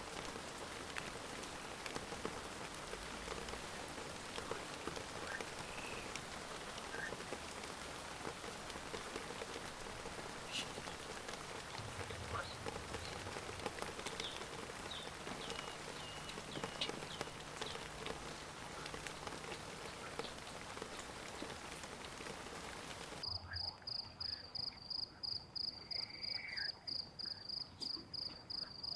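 Heavy rain falling steadily, with occasional frog croaks. About 23 s in it cuts abruptly to a much quieter scene, where an insect chirps high in a rapid, even pulse.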